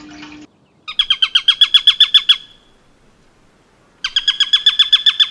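A bird trilling: a rapid run of repeated, sharp down-slurred notes, given twice, each run lasting about a second and a half.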